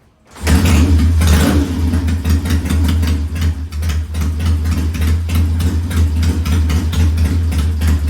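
1969 Triumph T100's 500 cc parallel-twin engine running steadily with an even exhaust beat, cutting in suddenly about half a second in.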